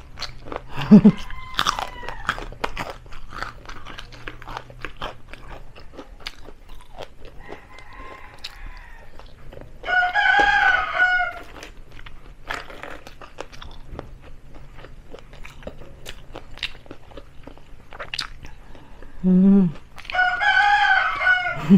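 Crunching and chewing of crispy deep-fried chicken feet, bones and all, close to the microphone. A rooster crows about ten seconds in and again near the end, louder than the chewing, with a fainter crow just before the first.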